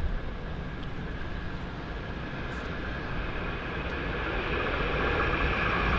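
Rumble of an approaching train, growing steadily louder through the second half.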